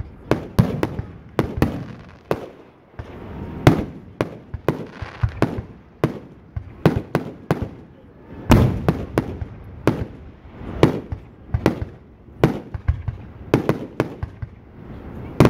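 Aerial fireworks display: shells launching and bursting overhead in a quick, irregular run of sharp bangs, often several a second. The biggest reports are followed by a low rumble.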